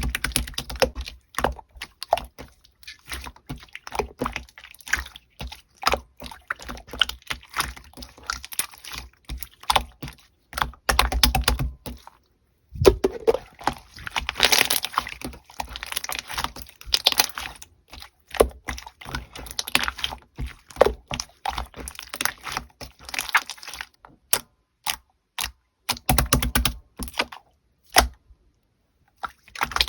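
Slime being squeezed, stretched and pressed by hand, giving dense crackling clicks and pops of trapped air with short squelches. The sound stops briefly twice.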